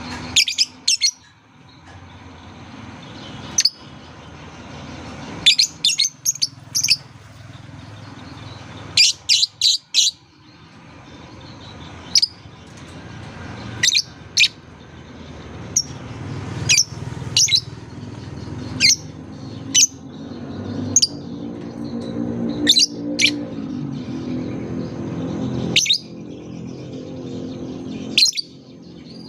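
Lovebird calls: sharp, high-pitched chirps, some single and some in quick runs of two to four, every second or two. A low background hum rises and falls underneath.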